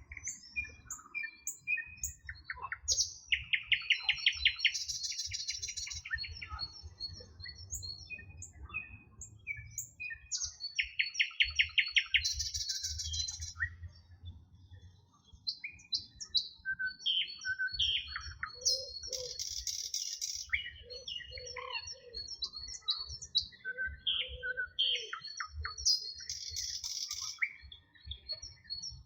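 Several songbirds singing at once: many short chirps and whistles, a loud rapid trill twice, and a higher buzzy trill that recurs every several seconds.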